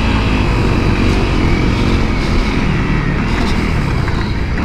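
2017 Honda CRF250L's single-cylinder four-stroke engine running as the dirt bike rides through sand whoops, under a loud, continuous rumble of riding noise.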